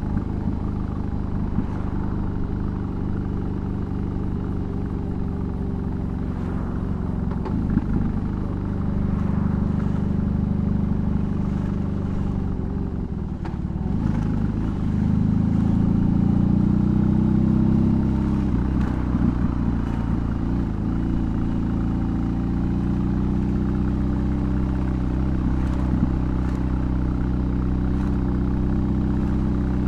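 BMW R18's 1802 cc boxer twin through a custom exhaust, heard from the saddle while riding. It runs steadily, eases off about 13 seconds in, then pulls harder and louder for a few seconds before settling back to an even cruise.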